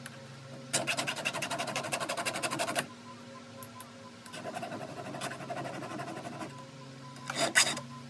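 Flat file rasping on the depth gauges (rakers) of a steel chainsaw chain: a fast, even run of scraping strokes for about two seconds, a fainter stretch of filing later, and one short, loud scrape near the end.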